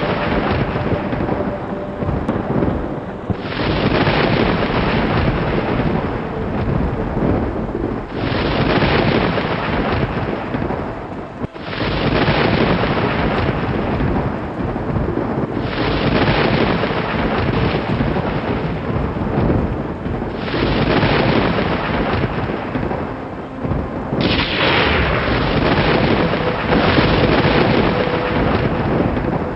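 Thunder rumbling in rolls, one after another. Each new roll breaks in suddenly about every four to five seconds and rumbles on until the next.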